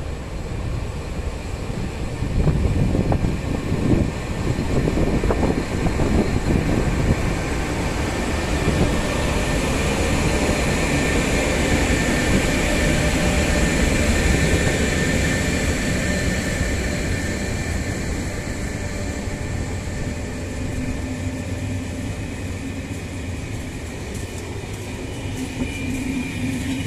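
Electric locomotive and a long rake of M4 passenger coaches passing close by: a steady rumble of wheels on rails. Knocks and clatter are heaviest in the first several seconds, then it settles into a smoother rolling noise with a faint high whine over it.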